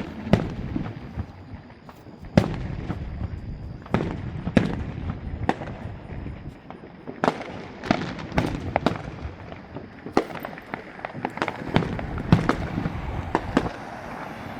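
Fireworks display going off: a run of sharp bangs and crackles, a few big single reports in the first half, then a denser string of bangs in the second half.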